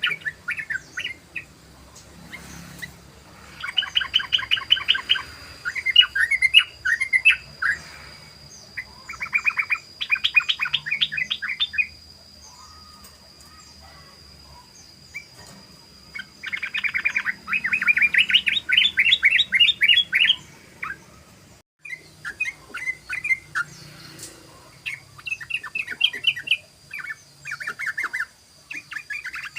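Yellow-vented bulbul (trucukan) singing its fast, bubbling chattering song in bursts of rapidly repeated notes, the ngeropel song, with a pause of a few seconds midway.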